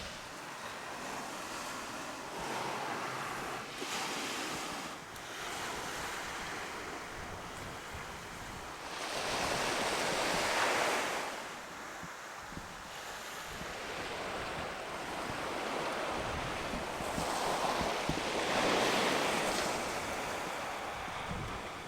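Sea waves breaking and washing up a beach, swelling into two louder surges about nine seconds in and again near the end, with some wind buffeting the microphone.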